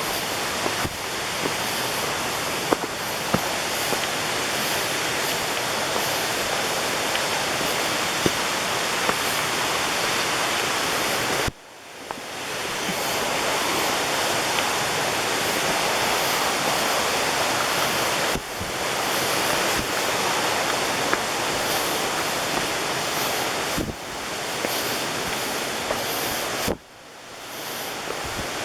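Waterfall: a steady rush of falling water, with a few small clicks and several sudden dips in level that quickly build back up.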